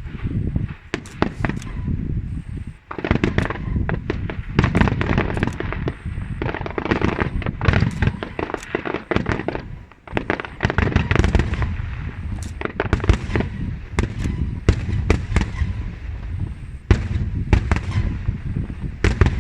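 Aerial fireworks display: a dense, continuous barrage of shell bursts, with many sharp bangs and crackles following close on one another.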